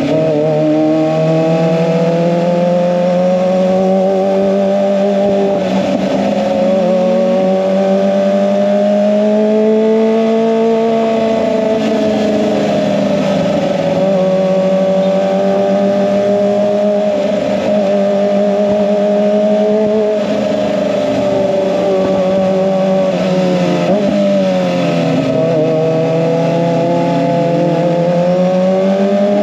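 Kawasaki ZX-25R's 249 cc inline-four running through an SC-Project aftermarket exhaust, held at steady mid revs with its pitch easing and rising gently, dipping about 25 seconds in and then climbing again near the end.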